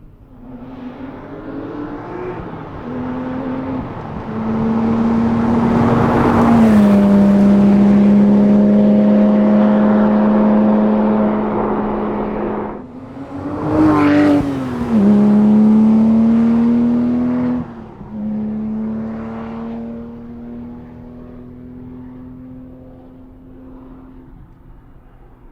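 Porsche 911 R's 4.0-litre naturally aspirated flat-six running under load. It swells up and holds a steady pitch, changes pitch sharply twice about halfway, and fades out slowly over the last several seconds.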